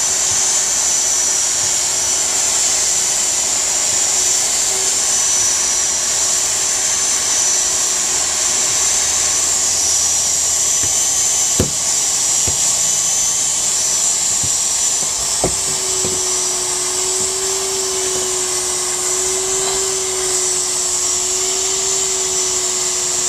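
Handheld hot air welder running steadily, its blower giving a loud rushing hiss of hot air with a high whine, while it welds a seam in PVC mesh tarp fabric. Two sharp clicks come near the middle, and a lower hum grows stronger about two-thirds of the way in.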